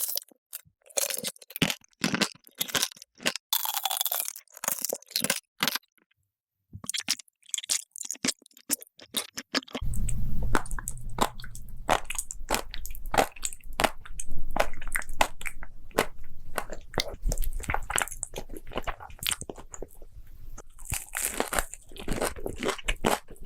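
Close-miked crunching and chewing of food, with many sharp irregular crunches and a short pause about six seconds in. From about ten seconds in, a low steady hum runs underneath.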